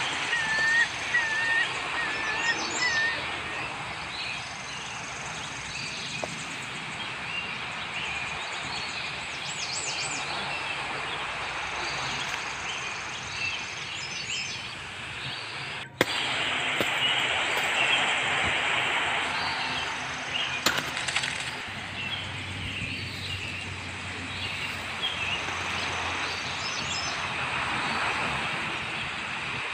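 Birds chirping over a steady outdoor hiss. A short repeated warbling call sounds in the first few seconds, then scattered high chirps, with a brief drop-out about halfway through.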